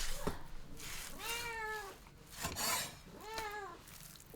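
A cat meowing twice, each meow about half a second long, with a short rustling scrape between them.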